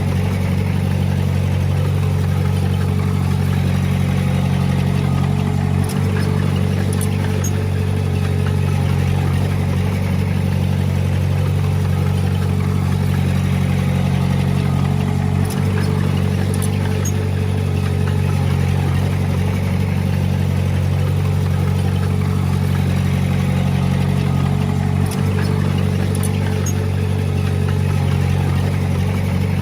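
Komatsu D20P crawler bulldozer's diesel engine running steadily under work, with a brief dip about every nine or ten seconds.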